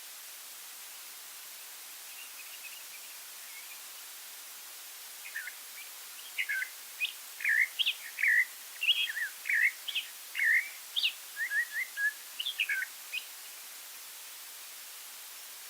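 A songbird close by singing a run of short, sweeping whistled notes, about two or three a second, starting about five seconds in and stopping near the end, with fainter calls before it. Underneath is a steady soft hiss.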